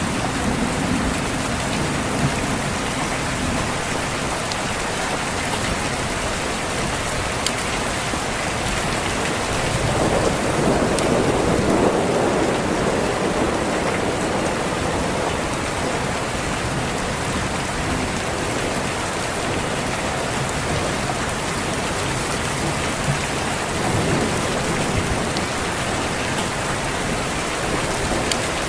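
Steady heavy rain, with a low rumble of thunder swelling about ten seconds in and fading over a few seconds, and a fainter rumble later on.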